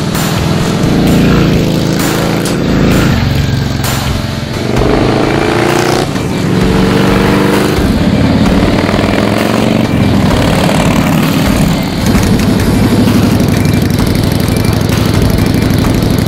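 Harley-Davidson V-twin fitted with a Bossley Reventon stainless header exhaust with a wide megaphone muffler, accelerating with the exhaust note rising in pitch several times as it pulls through the gears, then running steadily at speed in the second half.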